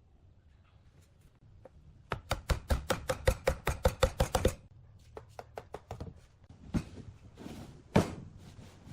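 Rapid sharp knocks of a hand tool striking wood, about seven or eight a second for a couple of seconds, then a few lighter taps and one louder knock near the end.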